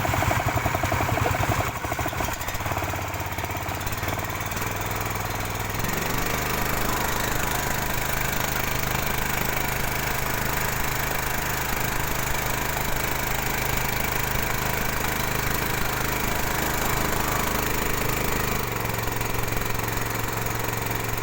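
A stock, unmodified engine running steadily. Its speed steps up about six seconds in, holds, and drops back near the end.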